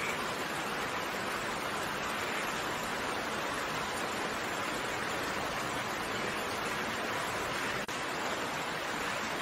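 Steady rain falling as an even hiss, with no single drops standing out. Near the end the sound drops out for a split second.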